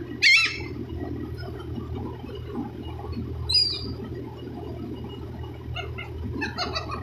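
Seagulls calling: one loud wavering call just after the start, a shorter high call about three and a half seconds in, and a few short calls near the end, over a steady low rumble.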